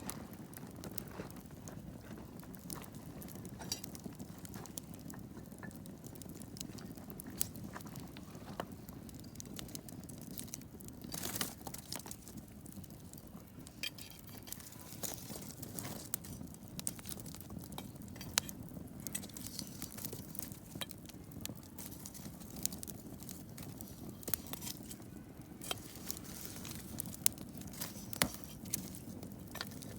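Wood campfire burning: irregular sharp crackles and pops over a steady low rush of the flames, with a denser run of crackling about 11 seconds in.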